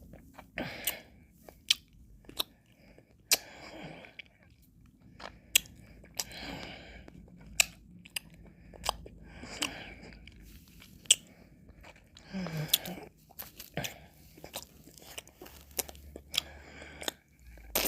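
Close-miked mouth sounds of eating ice cream: wet lip smacks, licking and sharp mouth clicks, with soft slurping between them, irregularly every second or so.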